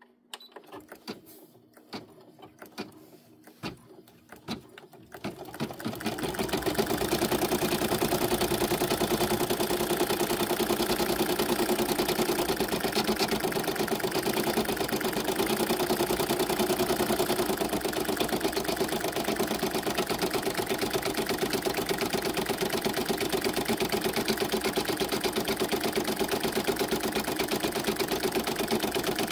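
A few sharp clicks, then about five seconds in a machine embroidery machine starts stitching: a steady, fast, even needle rhythm that keeps going.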